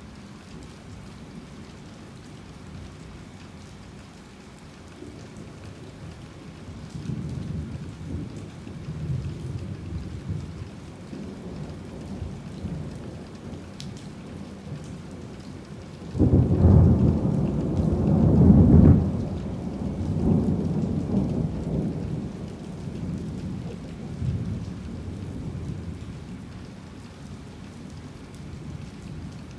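Steady rain with thunder: low rumbles build from about five seconds in, then a sudden loud thunderclap comes about halfway through, peaks a couple of seconds later and rolls away into fading rumbles.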